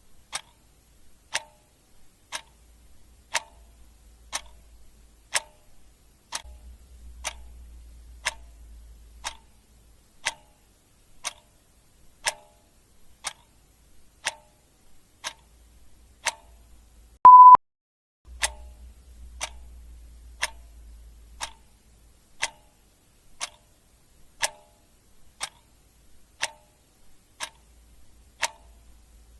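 Clock ticking steadily, about one tick a second. About two-thirds of the way through, a single short, loud, high beep sounds over the ticking.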